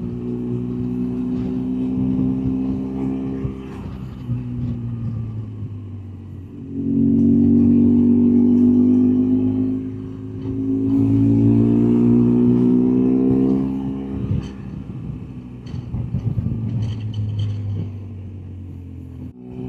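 BMW R1200GS flat-twin motorcycle engine running under way on a climbing road. It pulls harder twice, each time for about three seconds, with the pitch rising a little, then eases back between.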